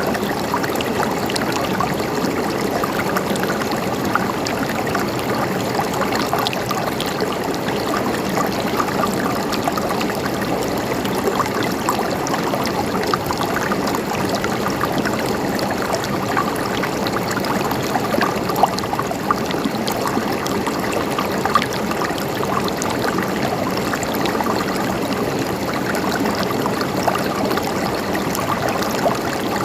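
Flowing water trickling and babbling steadily, with many small splashes throughout.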